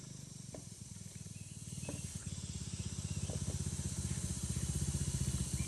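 Small motorbike engine idling with a fast, even putter, growing louder about two seconds in.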